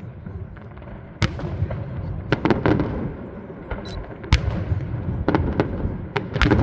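Aerial fireworks display: a rapid, irregular series of sharp bangs and cracks over a continuous low rumble of explosions, with the loudest bang a little past the middle.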